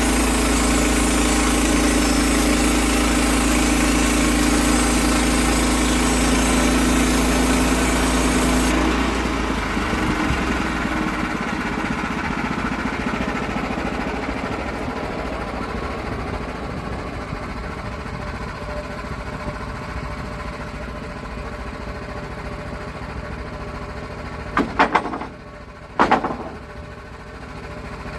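Gas-engine portable sawmill cutting through an oak log. The cutting noise stops suddenly about nine seconds in, and the engine runs on, slowly fading. A few sharp knocks follow near the end.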